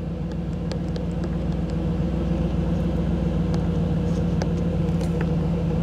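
1985 Camaro IROC-Z's tuned-port-injected V8 idling steadily, with an even firing pulse.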